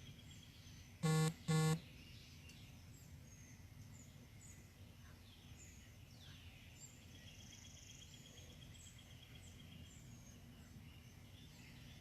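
Outdoor ambience of scattered bird chirps and a steady insect trill. About a second in, two short, loud, buzzy beeps sound a fraction of a second apart.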